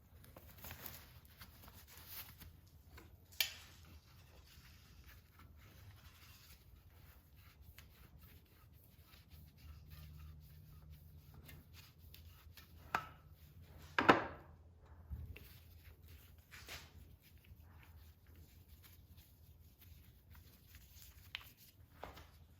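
Faint handling of a plastic cap and fittings on an AC refrigerant recharge kit, with a few sharp clicks and knocks, the loudest two close together near the middle, over a low hum.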